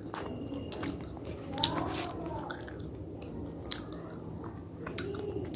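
A person biting and chewing a hard, brittle earthy material close to the microphone, with sharp irregular crunching snaps.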